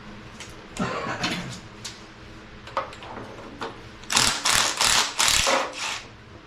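Hand tools working on engine parts: scattered metal clinks and scrapes, then, about four seconds in, a quick run of four or five loud ratcheting strokes.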